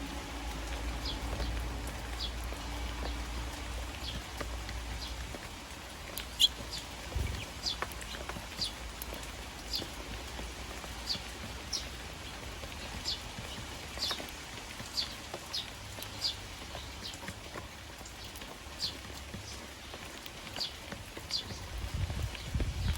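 Eurasian tree sparrows chirping over and over in short high notes, about one or two a second, over the steady patter of rain.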